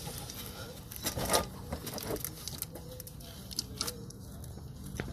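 A few light clicks and knocks of small metal parts and tools being handled while a snowblower carburetor is reassembled; the loudest knock comes about a second and a half in.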